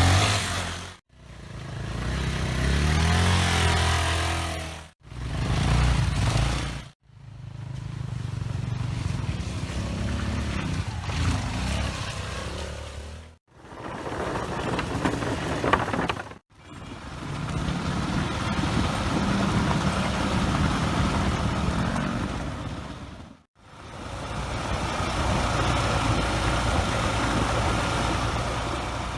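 Small dirt-bike engines running and revving, heard in a series of short clips, each broken off by a brief silence before the next.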